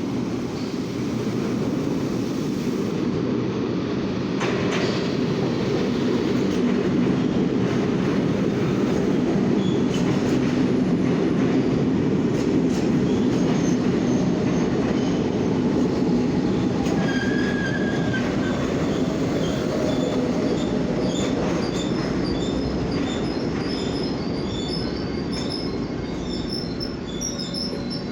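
Alsthom GEC Series 3 metro train pulling into a station: a steady rumble of wheels on rail that builds and then eases as it slows. Brief high squeals come and go through the second half as it brakes.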